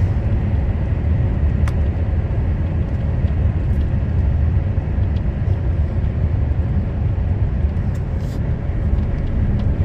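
Steady low rumble of a truck under way, engine and road noise, with a few faint clicks.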